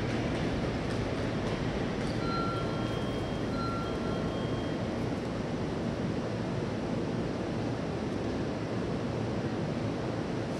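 Steady rumbling noise of a distant train approaching along the tracks, heard under a station platform roof. Two short high beeps sound about two and three and a half seconds in.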